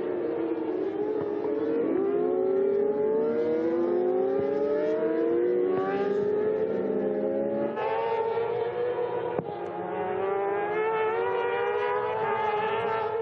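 Several superbike racing motorcycle engines running at high revs together, their pitches climbing over and over as they accelerate. The sound changes abruptly about eight seconds in.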